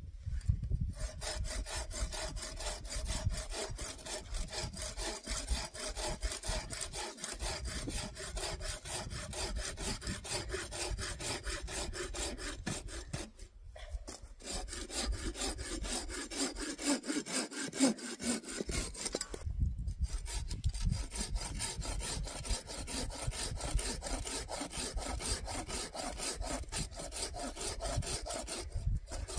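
Hand saw cutting through a firewood log, steady back-and-forth strokes with two short pauses about a third and two thirds of the way through.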